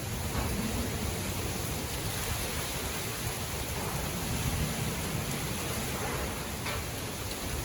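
Strong wind gusting through trees, a steady rushing of leaves and branches, with a low rumble of wind buffeting the microphone.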